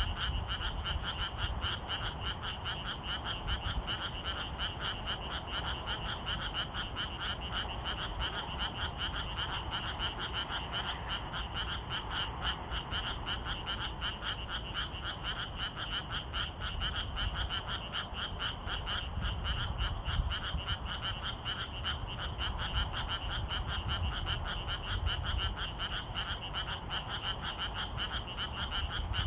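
A chorus of many frogs calling without pause, a dense, rapid pulsing trill with a steady high-pitched band. A low rumble runs underneath.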